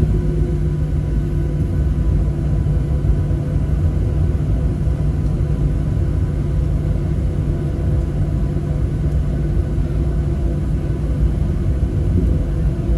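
Boeing 737-700's CFM56-7B jet engines running steadily at low power before takeoff, heard inside the cabin as a constant rumble with a low hum and several faint, steady whining tones.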